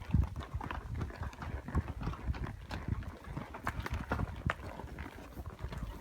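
Irregular steps and knocks on hard ground, several a second, uneven in loudness.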